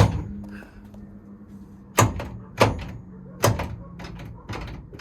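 Sharp metallic clunks, four spaced at uneven intervals, from the custom rod-and-lever gear linkage being worked back and forth as it shifts the Suzuki Hayabusa gearbox. A faint steady hum runs underneath.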